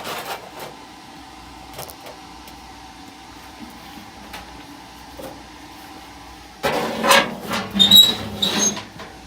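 Sheet metal scraping and clattering as a furnace blower assembly is worked back into its cabinet, in a loud burst of scrapes and knocks with a few high squeaks near the end, after a single light knock at the start.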